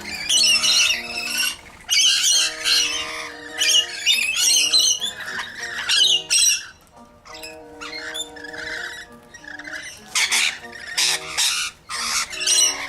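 A bird squawking loudly and repeatedly in harsh, irregular calls, over background music.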